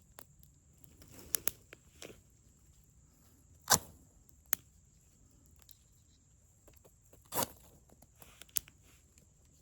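Ferrocerium fire steel scraped to throw sparks onto tinder: a few short, sharp scrapes, the loudest nearly four seconds in and another about seven seconds in, with scattered small clicks between.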